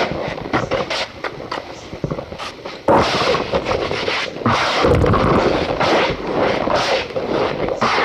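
Cornstarch powder squeezed and crushed by hand, crunching and squeaking in irregular handfuls, louder from about three seconds in.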